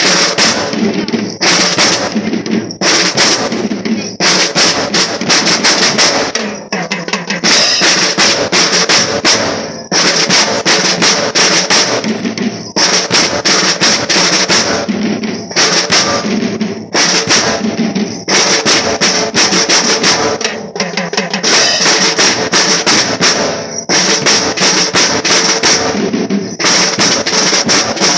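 Marching drum band playing a percussion cadence: snare drums with rolls over bass drum beats, in a rhythmic pattern that repeats about every two seconds.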